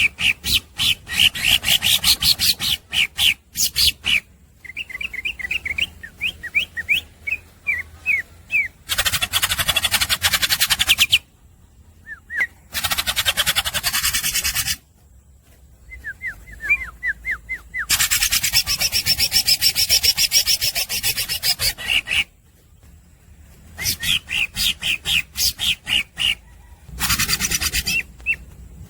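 Cucak ijo (green leafbird) singing loud and without pause in the 'los dol' rapid-fire style: fast runs of sharp, sliding whistled chirps alternating with long harsh, rasping stretches.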